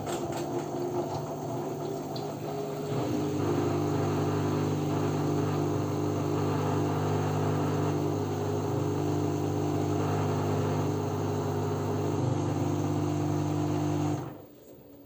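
LG F10B9LD washing machine in its spin stage, the drum motor running with a steady hum. The hum grows a little louder about three seconds in, then cuts off suddenly about a second before the end as the motor stops driving the drum.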